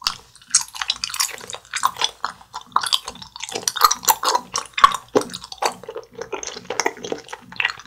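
Mouth chewing a soft gummy candy, the green lettuce layer of a gummy burger: wet, sticky smacking and clicking in quick, irregular succession.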